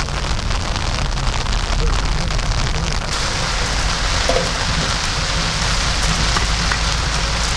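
Heavy rain pouring down steadily, with a dense, even hiss.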